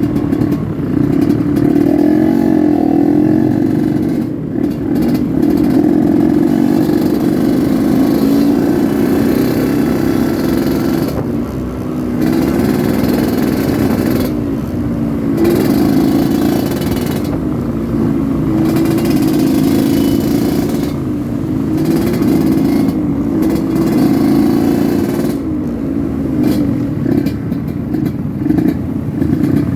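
Yamaha RX-King two-stroke single-cylinder motorcycle engine running under way, its note rising and falling with the throttle and easing off briefly a few times.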